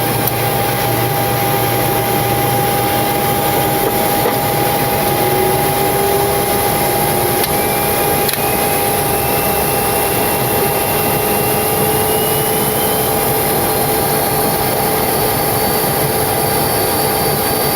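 Steady cockpit noise of a taxiing Boeing 727-200: the Pratt & Whitney JT8D turbofans running at idle thrust under a constant hiss of airflow, with a steady whine and a fainter whine that rises slowly in pitch about halfway through.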